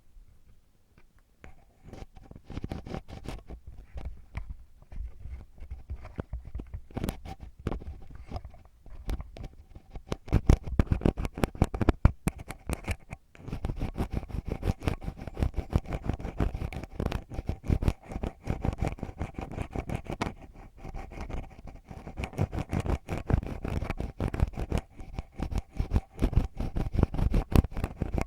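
ASMR ear cleaning: an ear pick scraping and scratching deep in the ear, close to the microphone, in quick irregular strokes. The strokes begin about two seconds in and pause briefly about halfway through.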